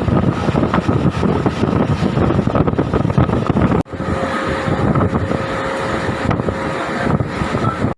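MEMU electric train running, a loud steady rumble with wind buffeting the microphone. About four seconds in the sound cuts out for an instant and comes back, now with a faint steady whine for a few seconds.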